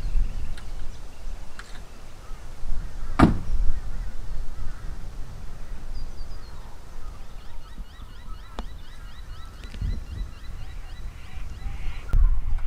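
Wind buffeting the microphone in gusts, with one sharp knock about three seconds in. Past the middle, a bird calls in a quick series of short, high chirps for several seconds.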